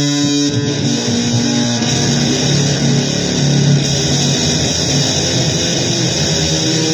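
Loud, noisy guitar music. Held droning notes give way about a second in to a dense, distorted wash of sound, and held tones come back at the very end.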